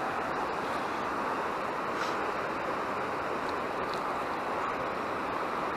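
Steady rushing of a waterfall, an even roar of falling water that holds level throughout.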